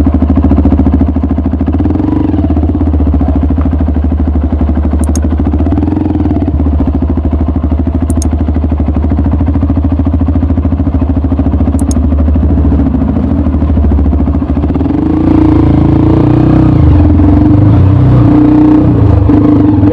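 Honda CRF 150L's single-cylinder four-stroke engine running through an aftermarket Norifumi RV1 type N4 exhaust, steady at first. About fifteen seconds in it gets louder and the pitch begins to shift as the revs change.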